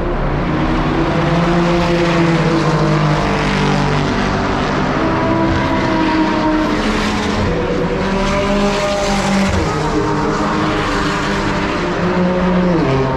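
Supercar engines running hard as cars drive along a race-circuit straight. Several engine notes overlap, rising and falling through gear changes, with a clear drop in pitch near the end.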